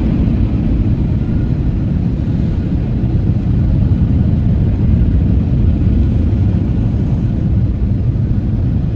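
Automatic tunnel car wash machinery running, heard from inside the car's cabin: a steady, loud low rumble with no breaks.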